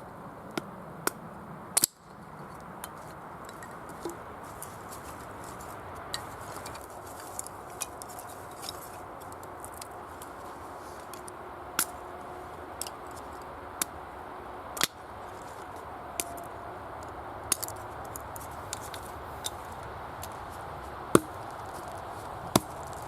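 Irregular sharp clicks and knocks, a couple of them louder near the end, over a steady background hiss.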